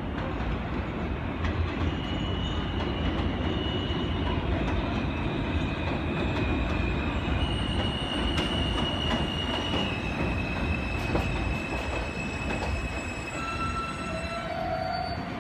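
New York City subway train running past, with a steady rumble of steel wheels on rail and a high-pitched wheel squeal that holds one note and then jumps to another every second or two, plus a few sharp clicks. The sound eases off near the end.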